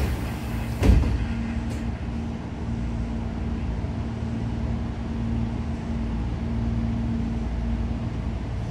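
Inside a Tobu 9000 series commuter train: a steady low rumble with a constant hum. There is one sharp knock about a second in.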